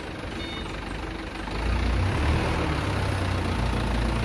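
Dump truck's diesel engine running with a low rumble, getting louder about a second and a half in as it works harder under a heavy sand load.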